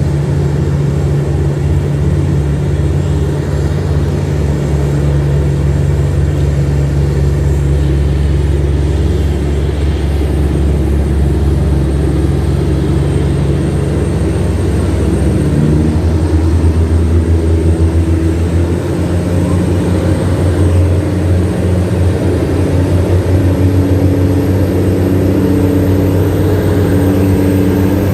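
Tugboat's diesel engine running steadily under load while towing loaded barges against the current; its note shifts about halfway through.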